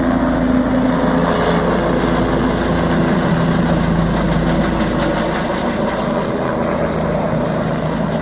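A vehicle engine running steadily with a deep hum, its pitch shifting a few times.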